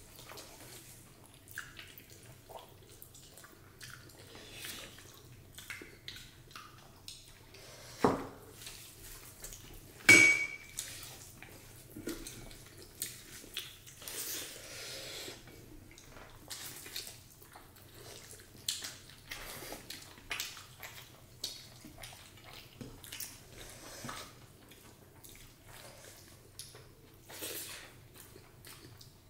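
Eating sounds from a meal of rice, dal and vegetables: wet mixing and chewing with scattered small clicks of dishes. A dull knock comes about eight seconds in, and a loud, ringing clink of a plate or utensil about two seconds later.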